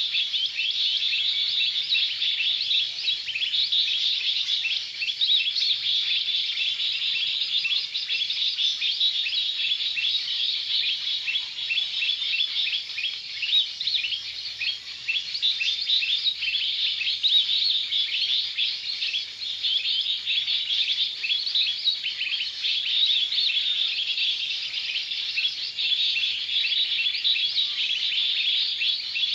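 Dense, continuous high-pitched twittering of many small birds, chirping over one another without a break.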